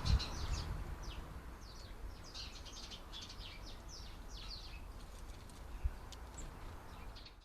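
Small garden birds giving quick, high, downward-sliding chirps over and over, with a low thump at the start and another about six seconds in.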